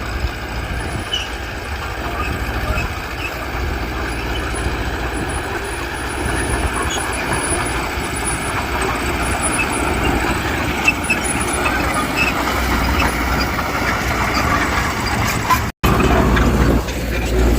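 Diesel engines of earthmoving machines, a bulldozer and dump trucks, running steadily. The sound cuts out briefly near the end.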